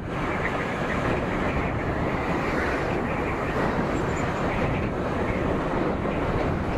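Steady rush of wind over the microphone, with the rumble of a motorcycle under way.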